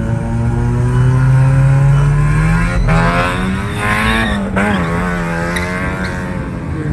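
A car engine revving hard, its pitch climbing over the first couple of seconds, then held high and wavering before dipping about four and a half seconds in.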